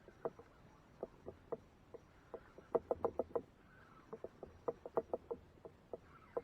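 A series of light, irregular knocks and taps, some in quick clusters of three or four, the busiest about three seconds in and again around five seconds in.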